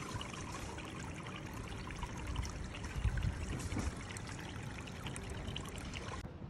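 Water pouring and trickling steadily, with small splashes.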